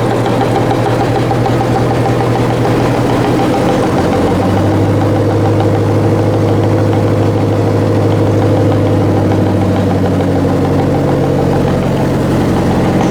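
Locomotive engine running steadily, its note shifting to a different pitch about four seconds in.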